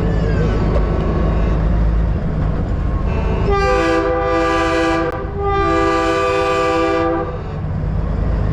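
A semi truck's train horn gives two long multi-note chord blasts a little past the middle, the second following right after the first. Under it a diesel engine rumbles steadily.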